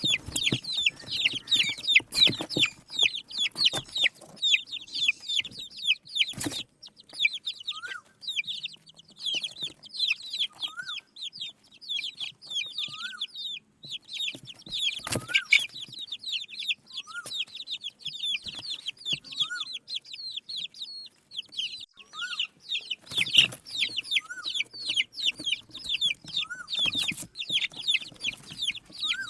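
A group of desi chicken chicks peeping continuously, many high-pitched chirps overlapping, with a lower rising call repeating every second or two and a few sharp clicks.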